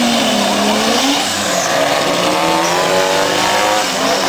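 Turbocharged drag-racing car engine under hard acceleration, its pitch climbing steadily over a constant loud wash of noise.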